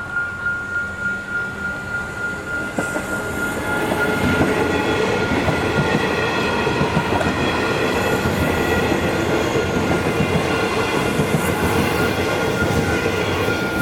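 Electric suburban train passing over a level crossing: a rumbling wheel clatter builds a few seconds in and stays loud. Through it the crossing's electronic bells keep ringing, a steady pulsing tone.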